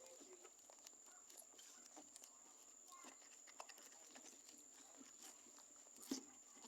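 Near silence: faint scattered small ticks over a faint steady high-pitched whine.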